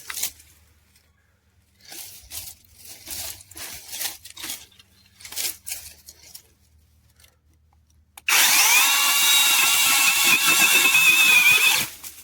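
Brushless cordless mini chainsaw spinning up with a rising whine about eight seconds in, then running through shrub wood for about three and a half seconds, its whine wavering under load, and stopping abruptly. Before it come several short, softer noises.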